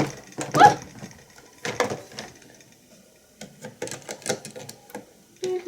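C-size batteries being pushed into a plastic toy battery compartment: a few knocks, then a quick run of small plastic clicks and clatter in the last two seconds.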